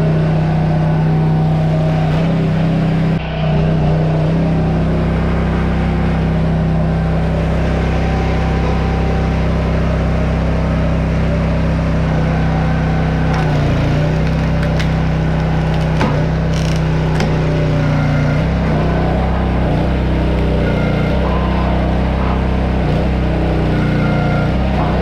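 A large engine running steadily with a low, even drone; its pitch shifts slightly now and then, with a brief dip about three seconds in.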